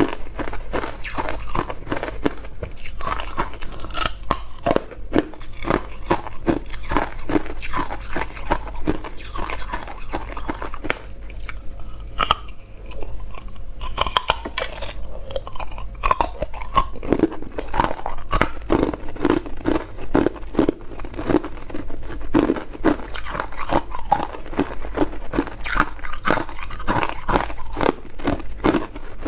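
Hard clear ice being bitten and chewed up close, a rapid run of sharp crunches and cracks, with a short lull about halfway.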